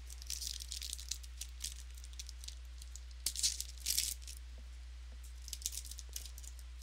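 Trading cards being handled and flipped through by hand: three short bouts of crisp card-on-card rustling and clicking, over a steady low electrical hum.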